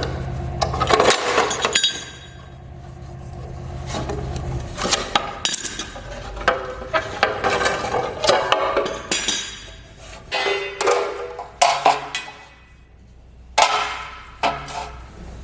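Repeated clinks and knocks from hand work, with a low steady hum that stops about four and a half seconds in.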